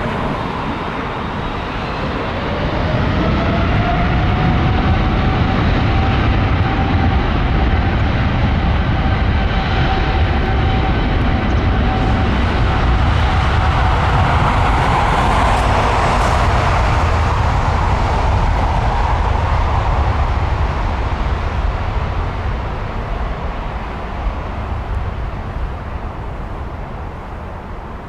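Jet airliner taking off: a loud engine roar with a fan whine that rises in pitch over the first few seconds and then holds steady, swelling to a peak midway and fading away over the last several seconds.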